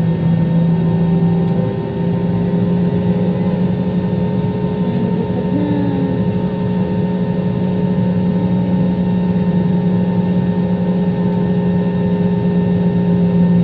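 Passenger airplane cabin noise: a loud, steady drone of the engines and airflow, with a low hum that holds one pitch throughout.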